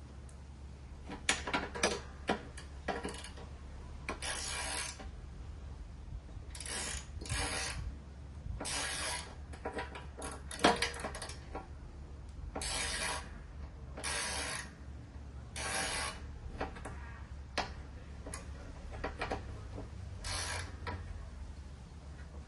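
Hand ratchet wrench being worked in short strokes, a burst of pawl clicking on each return swing, with scattered sharp metal clicks and knocks in between.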